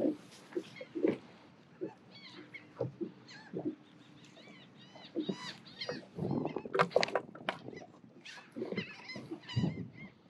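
A flock of birds calling: many short, repeated cries that rise and fall in pitch, with a few knocks mixed in.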